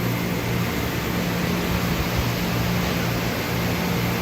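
Doosan Puma MX1600ST CNC turning and milling center running: a steady machine hum over a broad, even hiss.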